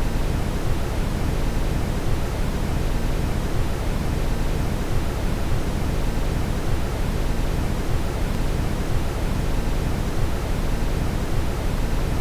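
Steady synthetic brown noise: an even, deep rushing hiss, heaviest in the bass and thinning toward the highs, with no change or events.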